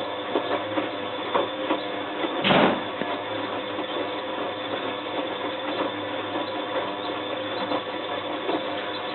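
Bosch WFF2000 washing machine in its main wash, the motor turning the drum steadily with light clicks and knocks, and one short, louder noise about two and a half seconds in.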